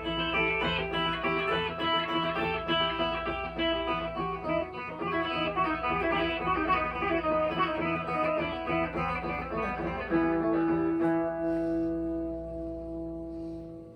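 Blues guitar playing a run of plucked notes, then a final chord held and left ringing, fading near the end.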